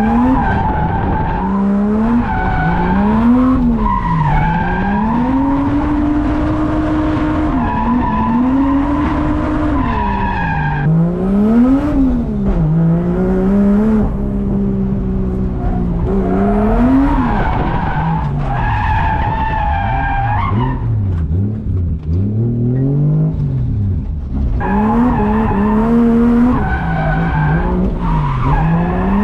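Drift car's engine revving up and down over and over as it is driven sideways, its pitch rising and falling every second or two, with tyres skidding underneath.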